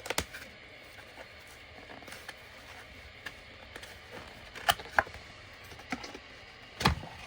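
A cardboard product box being opened and handled: scattered clicks, knocks and rustles, with the loudest knock, a dull thump, near the end.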